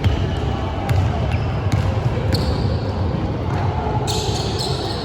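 A basketball bouncing on a gym court during play, with short high squeaks and a few clicks over it.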